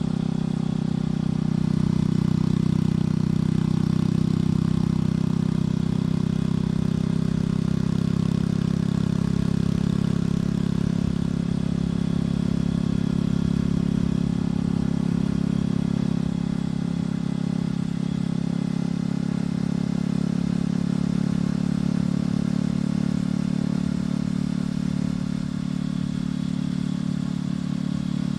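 Motorcycle engine and exhaust running at a steady cruising pace, a constant low drone whose pitch barely changes.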